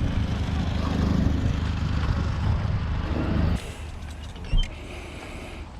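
Car engine running steadily, cutting off abruptly about three and a half seconds in; a single dull thump follows about a second later.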